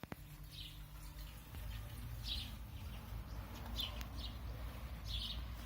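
Sparrows chirping: about five short single chirps at irregular intervals, over a steady low rumble.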